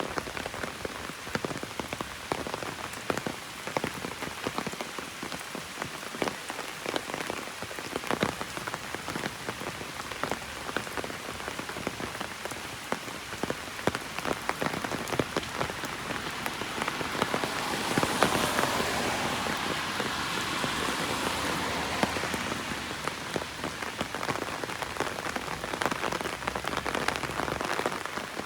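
Heavy raindrops pattering on an umbrella as a dense stream of fine ticks over steady rain hiss. About halfway through, a louder hiss swells up, holds for several seconds and fades away.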